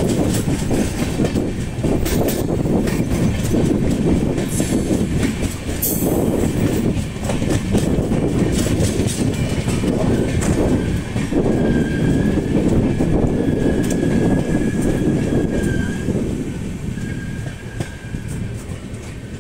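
A passenger train coach running along the track, heard from its window: a steady rumble of wheels on rail with irregular clacks over joints and points. A thin, high wheel squeal comes in about ten seconds in and fades near the end, as the noise eases off.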